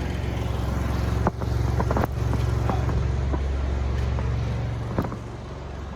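Pressure washer's engine running steadily as a low hum, under the hiss of the spray. A few sharp knocks come about one, two and five seconds in.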